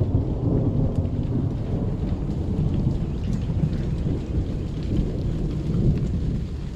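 Thunderstorm noise: rain falling, with a steady low rumble underneath.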